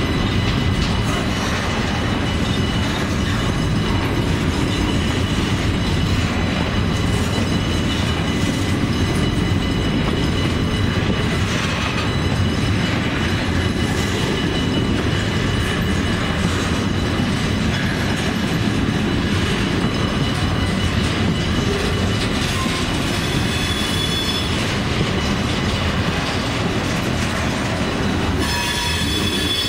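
Freight cars rolling past close by: a steady rumble of steel wheels on the rails, with thin, steady high wheel squeal over it and a few clacks at the rail joints.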